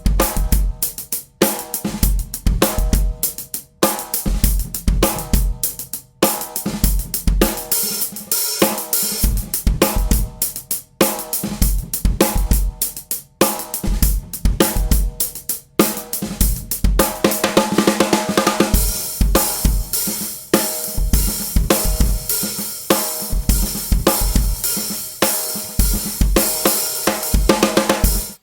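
Drum kit groove built around an unmuffled 14" x 7" London plane wood snare drum in high tuning, coated Remo Ambassador batter head, with bass drum, hi-hat and cymbals. About two-thirds of the way through, the cymbals ring more continuously.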